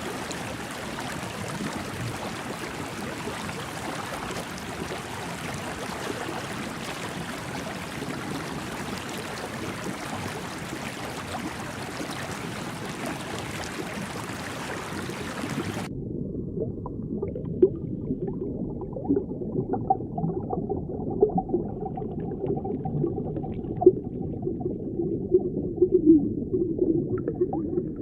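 Underwater ambience: a steady hiss for the first half, which cuts off suddenly to a muffled, low bubbling and gurgling with scattered pops.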